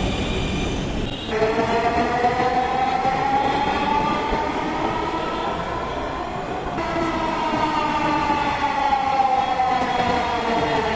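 Dhaka Metro Rail electric train running, its traction motors whining over a rumble. The pitch of the whine rises and then falls, twice, and the sound changes abruptly about a second in and again around the middle.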